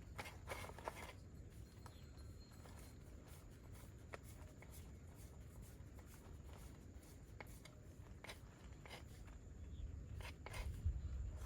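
Knife cutting vegetables on a chopping board: scattered, irregular taps and clicks of the blade, over a faint low rumble.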